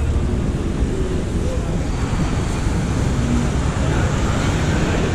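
Steady, loud low rumble with a rushing hiss over it, unbroken throughout, like a moving vehicle or wind over the microphone.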